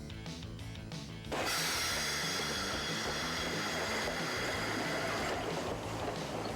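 A train's loud rushing hiss with several steady high tones cuts in over background music about a second in, holds for about four seconds, then fades.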